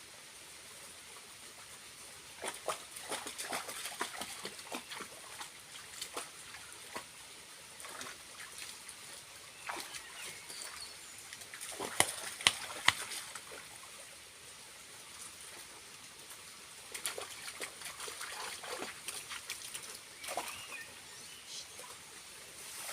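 Small waterfall trickling as a steady hiss, with irregular splashes and clicks throughout and three sharp, louder clicks about twelve seconds in.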